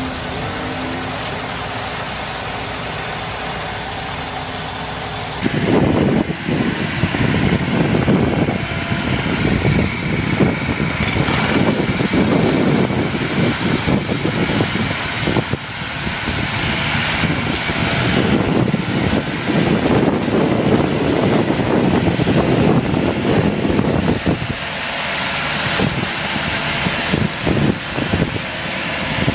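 Tractor engine running, getting much louder about five seconds in and easing off near the end.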